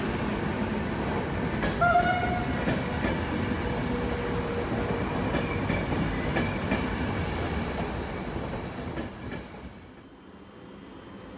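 Trenitalia Intercity passenger coaches rolling along the platform, a steady rumble with wheels clicking over rail joints. A brief high tone sounds about two seconds in. Near the end the rumble falls away to a much quieter hum.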